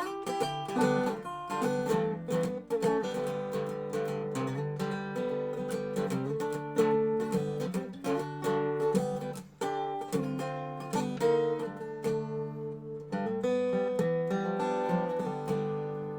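Dobro resonator guitar being played: picked notes and chords ringing on, the playing tailing off near the end.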